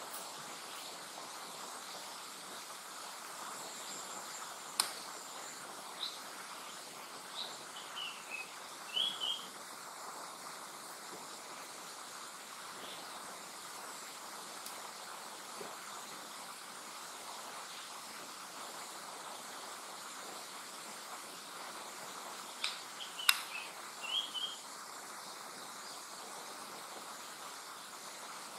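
Japanese paradise flycatcher singing two song phrases about 16 seconds apart, each a few descending notes ending in a quick run of short whistles, over a steady faint hiss. A sharp click sounds near each phrase and is the loudest sound.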